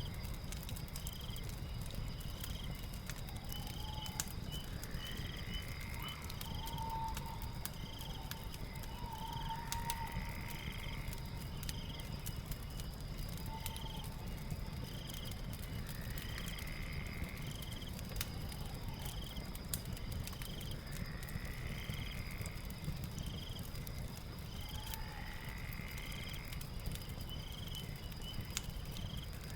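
Night ambience of frogs and insects calling over a crackling fire: a steady high insect drone, short chirps about once a second, and a longer sweeping call every few seconds, with fine crackles from the fire throughout.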